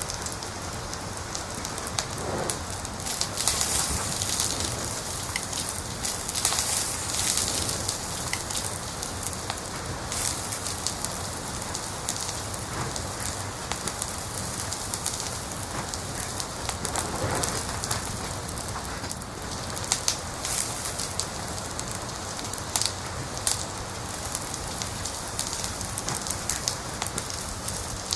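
Wood fire burning in a fireplace: a steady hiss with constant small crackles and scattered louder pops and snaps.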